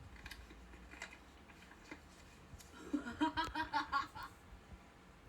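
A person laughing briefly, a quick run of short "ha" pulses about three seconds in.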